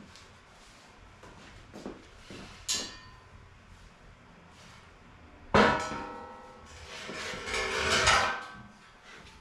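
Steel pieces of a clamped welding project clanking and ringing as they are lifted and set down: a sharp clank about three seconds in, a loud clang that rings on about five and a half seconds in, and more clattering with ringing near the end.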